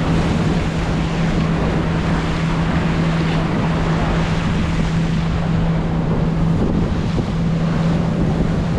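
Towing motorboat's engine droning at a steady pitch, with wind buffeting the microphone and water rushing past.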